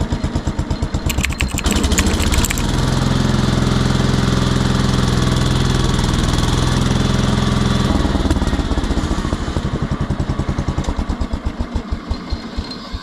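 1975 Power King tractor engine running on its first start in two years. It chugs at idle, rattles briefly about a second in, then revs up and holds a steady higher speed for about six seconds. Around eight seconds in it drops back to a slow chug that slows and gets quieter near the end.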